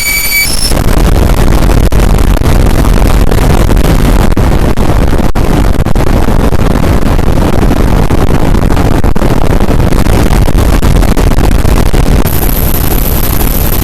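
Harsh noise music: a loud, dense wall of distorted noise with no beat or melody. A thin, high steady tone joins it near the end.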